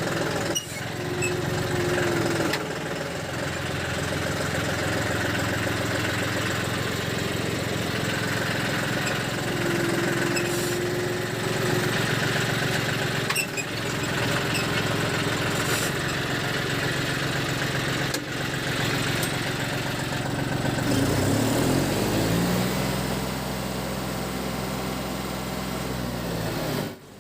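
John Deere 5310's three-cylinder diesel engine running steadily after its service. About 21 s in it is revved up and held, it settles back down near the end, and then the sound cuts off abruptly.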